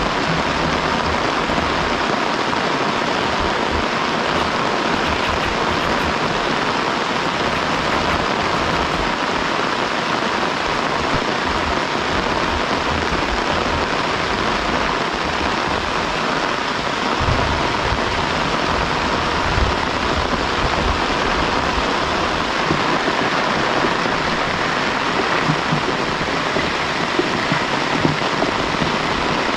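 Steady heavy rain falling, an even dense hiss, with a few soft low knocks in the second half.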